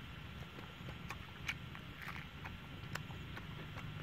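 Chewing and lip-smacking while eating roasted dove meat off the bone: irregular wet mouth clicks about every half second, over a steady low hum.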